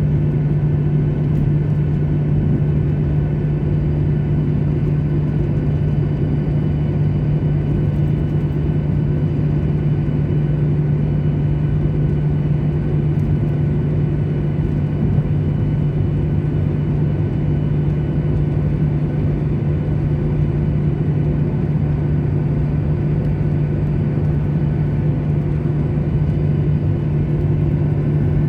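Steady drone of a jet airliner's cabin noise, engine and airflow, with a strong low hum that holds one pitch throughout.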